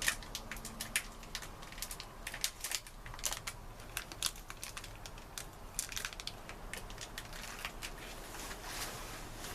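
A snack being crunched and crinkled: an irregular run of sharp crackles and clicks, thickest in the first few seconds.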